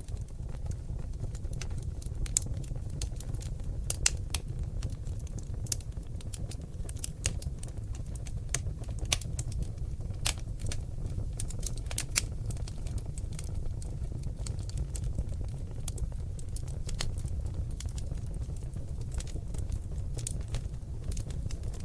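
Seasoned oak logs burning in a fireplace, crackling with many irregular sharp pops and snaps over a steady low rumble, a few pops standing out louder.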